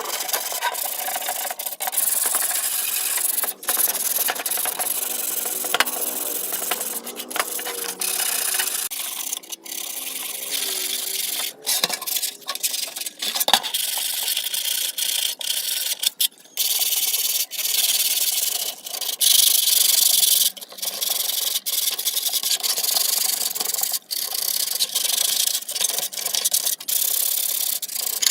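Abrasive rubbing and scraping, like sanding or filing a part by hand, going on in short strokes with frequent brief breaks and a few sharp clicks.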